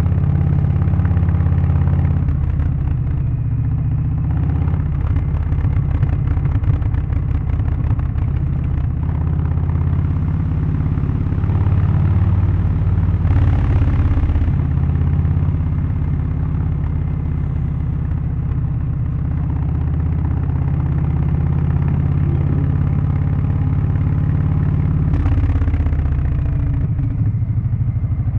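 Harley-Davidson Low Rider ST's Milwaukee-Eight 117 V-twin with a Stage 1 setup (remap, aftermarket exhaust and air filter) running under way, a low exhaust note that rises and falls with the throttle. A brief rush of noise comes about thirteen seconds in and again about twenty-five seconds in.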